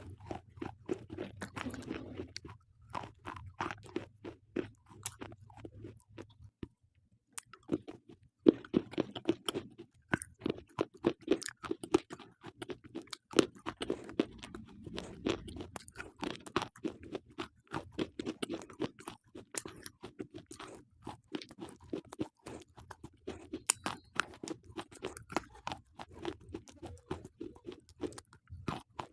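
Slate pencils being bitten and chewed close to the microphone: dense, rapid, gritty crunching with steady chewing, pausing briefly about a quarter of the way through before a sharp loud crack as it resumes.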